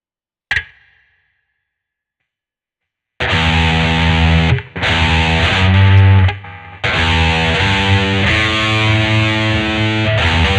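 1982 Vantage VE-550 electric guitar played with heavy distortion. A single short struck note or pick noise dies away quickly about half a second in. From about three seconds in come loud sustained power chords, changing several times, with two short breaks.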